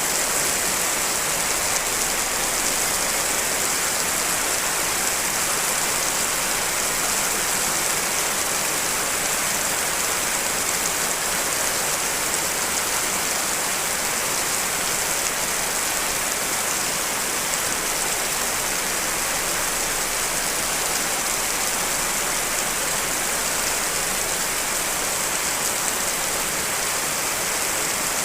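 Steady rain from a mix of several layered rain recordings. It is a constant, even hiss with the most energy high up, and nothing stands out.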